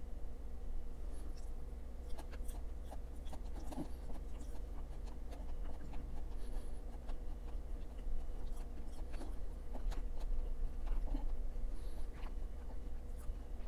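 Close-miked chewing and wet mouth sounds of a man eating forkfuls of chicken and vegetables, full of small irregular clicks, over a steady low electrical hum.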